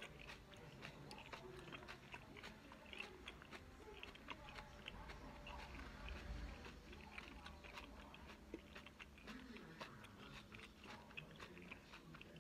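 A person chewing a mouthful of raw kale slowly with the mouth closed: quiet, steady, irregular crunching clicks, chewed over and over until it is liquid.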